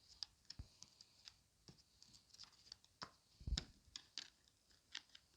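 Cards Against Humanity playing cards being handled and dealt out: faint, scattered clicks and slides of card stock, the loudest about three and a half seconds in.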